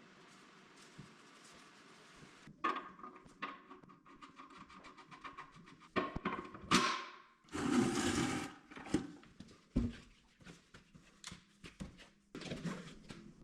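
Hands working with parts and tools: a run of sharp clicks and knocks, with a short rushing, rustling burst a little past the middle.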